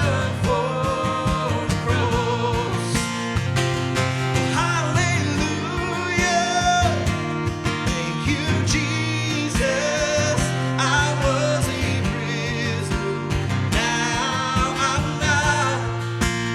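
Worship band music: a song with guitar and a singing voice over steady bass, the voice holding long wavering notes.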